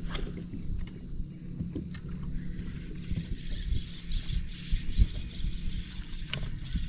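Fishing boat's motor humming steadily, with irregular low thumps and a few clicks over it.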